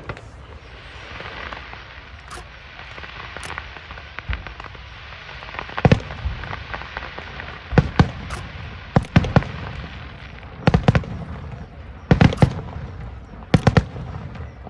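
Aerial fireworks shells bursting over a constant crackle. About six seconds in, sharp bangs begin, coming every second or two, several of them in quick pairs.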